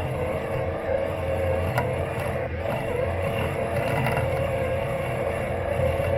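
Robot lawn mower's motors running as it drives across the lawn, heard up close from its body: a steady low hum under a wavering whine, with a few faint ticks.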